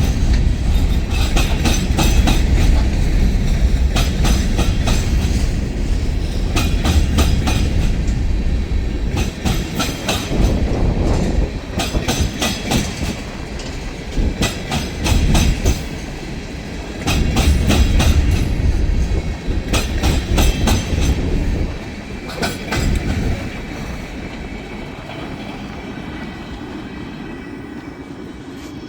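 Freight cars of a stone train rolling past, their wheels clacking over rail joints in repeated groups above a low rumble. The rumble drops off in the last several seconds and fades.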